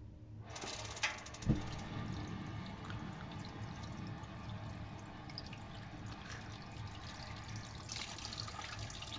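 Water tap opened and running steadily through a gas water heater, with two short knocks just after it opens.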